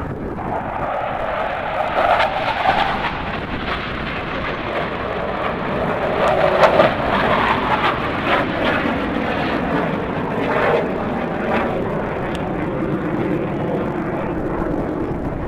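Airplane flying at an airshow: continuous engine noise that swells louder about two seconds in and again near the middle, then eases off.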